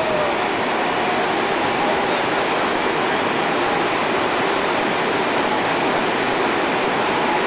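Rushing water of river rapids: a steady, even rush with no breaks.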